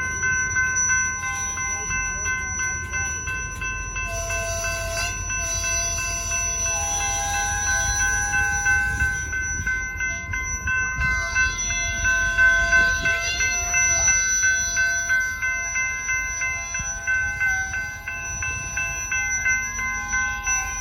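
A train moving slowly backwards over a grade crossing: a steady low rumble under several high-pitched squealing tones, some steady and some shifting in pitch as they come and go.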